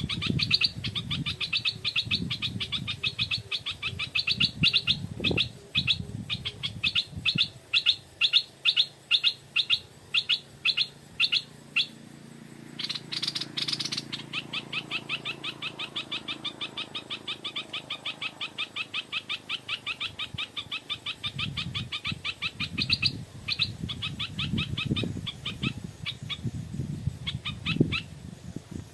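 Stripe-throated bulbul giving long runs of rapid, evenly repeated chattering notes, with a short burst of noise about halfway through.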